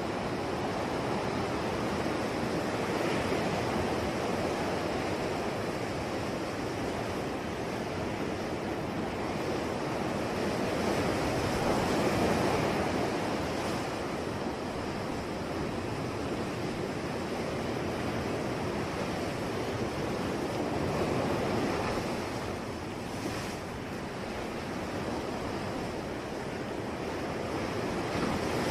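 Ocean waves washing onto the shore, a continuous surf that swells and fades with a louder wave about every eight to nine seconds.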